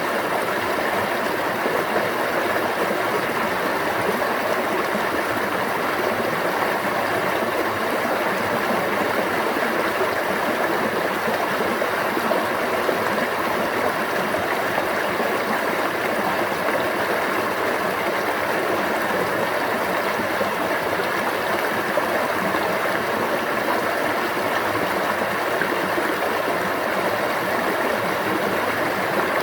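A stream running steadily, an even rush of flowing water with no change in level.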